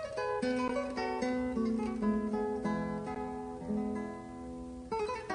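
Background music: acoustic guitar plucking and strumming sustained notes.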